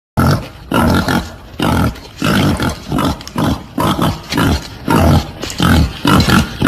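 Wild boar calls: a rapid run of harsh, loud grunting calls, about two a second, starting abruptly just after the start. It is the kind of wild boar call recording played as a hunting lure.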